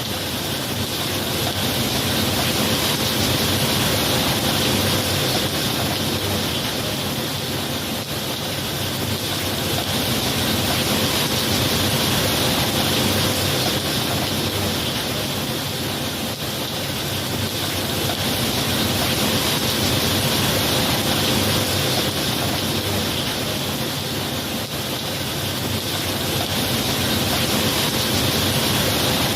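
Steady heavy rain, a dense hiss that swells and eases gently every several seconds.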